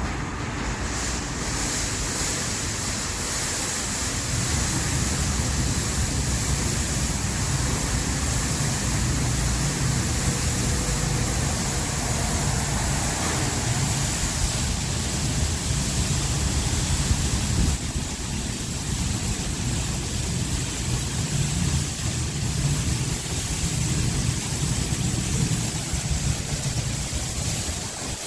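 Automatic car wash running a wash cycle: steady spraying water over a low rumble of the wash machinery.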